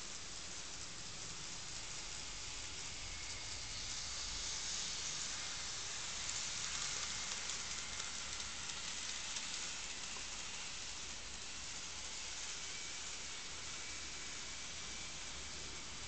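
KATO N-gauge model train (883 series Sonic) running on its track: a steady hissing rolling noise that grows louder for a few seconds in the middle as the train passes close, with a faint thin motor whine later on.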